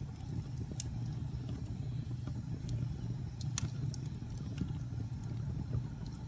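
Wood fire burning in a fireplace: scattered sharp crackles and pops over a low steady rumble, with one louder pop a little past the middle.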